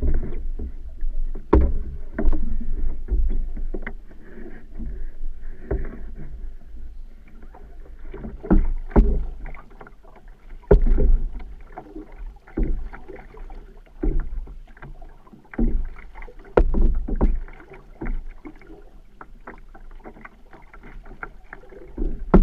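Canoe being paddled: a paddle stroke every second or two, each a surge of water noise, with occasional sharp knocks.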